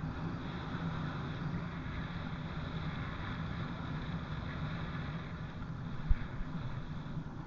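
Trail bike being ridden, a steady low running hum with wind noise on the microphone. A single sharp thump about six seconds in.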